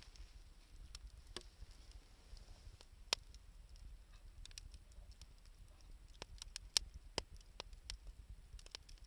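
Wood fire crackling: scattered sharp pops and snaps from burning scrap wood and 2×4 lumber, irregularly spaced, the loudest a little after three seconds and near seven seconds, over a low rumble.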